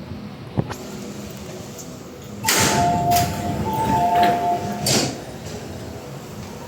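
MTR M-train door-closing warning: two-tone beeps sound twice while the sliding doors run shut, ending in a thud about five seconds in.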